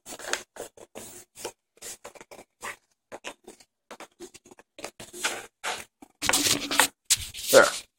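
Lid of a food container being pressed and worked shut with some effort: many short, irregular clicks and scrapes, growing denser and louder near the end.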